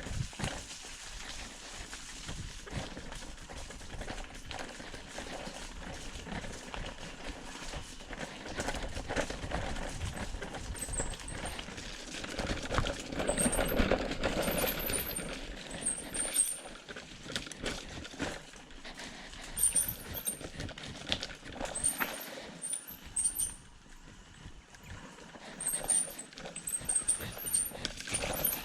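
Footsteps on a trail, a steady run of short knocks with a louder rustling stretch midway. From about eleven seconds in, small groups of very high, short chirps come and go.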